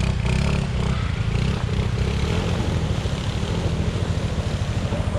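Motorcycle engine running steadily with a low, rapid chugging as the bike is ridden through a river crossing, with a steady hiss over it.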